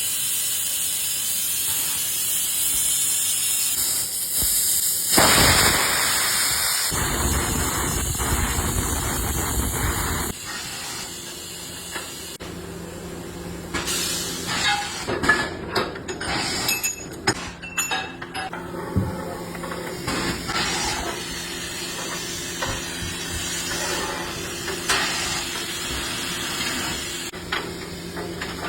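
Steady hiss of compressed air rushing, loud for the first ten seconds, then dying down to a background hiss with scattered clicks and knocks from handling tools on the tyre.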